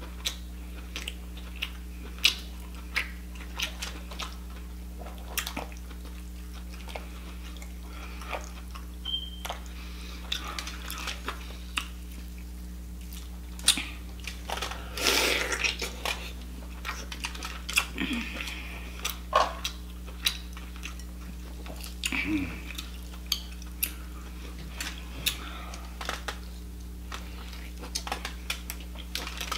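Close-miked eating of cooked lobster meat dipped in melted butter: wet chewing and mouth sounds with many short, sharp clicks scattered throughout. A steady low hum sits underneath.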